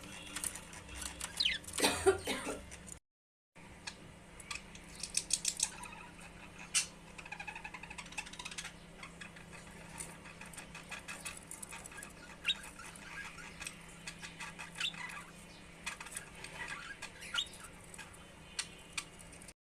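Pet budgerigars chirping and chattering: scattered short high chirps, clicks and quick pitch glides over a low steady hum, with the sound cutting out briefly about three seconds in.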